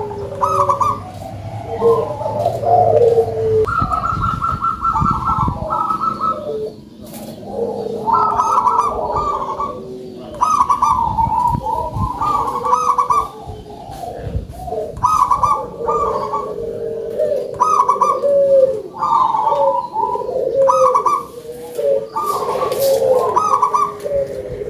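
Zebra doves (local perkutut) cooing repeatedly in loud, rhythmic phrases, with calls at two pitches overlapping.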